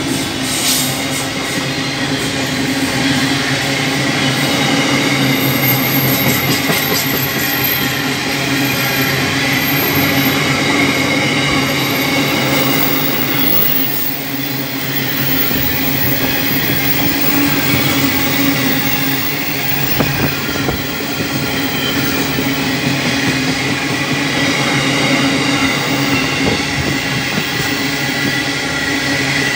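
Freight train rolling steadily past at close range: a continuous rumble of wagon wheels on the rails, with a thin steady wheel squeal running through it.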